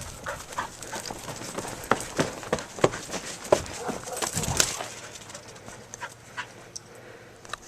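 A dog at play, panting, with scattered clicks and scuffles.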